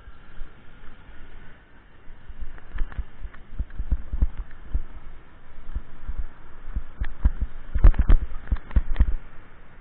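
Irregular low thumps and knocks on the microphone, as from a camera or phone being jolted on a moving bicycle, thickest and loudest about eight seconds in.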